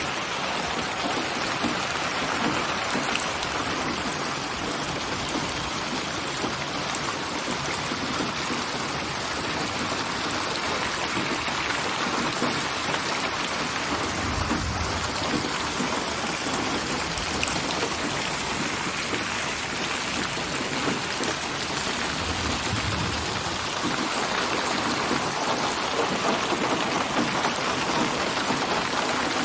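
Steady rain falling and pattering on surfaces, with two brief low rumbles of distant thunder, one about halfway through and one about three-quarters of the way in.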